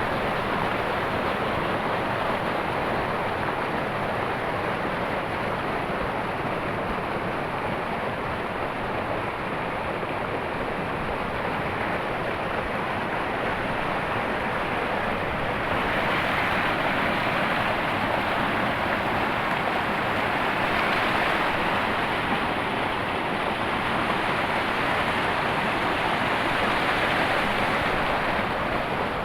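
Waterfall on the Banas River: a steady rush of falling water that gets a little louder about halfway through.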